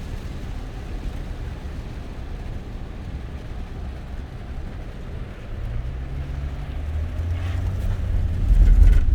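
Car driving, with a steady low road and engine rumble; the engine note rises partway through, and a deep rumble swells loudest near the end.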